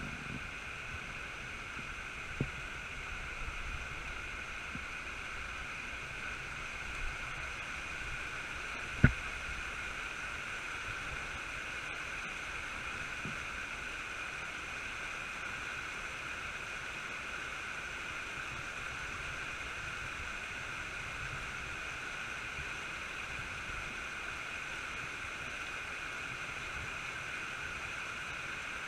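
Steady rush of creek water flowing fast over rocks, with a few light knocks, the sharpest about nine seconds in.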